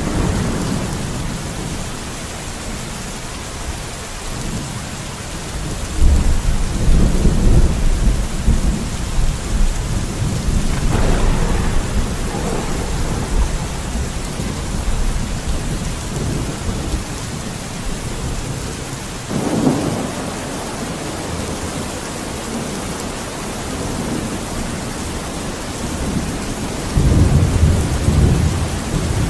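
Steady rain falling, with thunder rumbling through it: a deep roll of thunder about six seconds in, smaller swells later, and another heavy rumble near the end.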